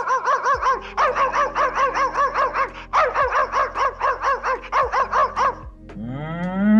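A small dog yapping in a fast run of short high yips, about five a second, with a brief break about halfway. Near the end a cow starts a long moo that rises in pitch.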